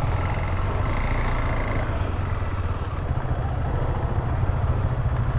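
Single-cylinder adventure motorcycle engine running steadily at low revs, its note lifting slightly about three seconds in.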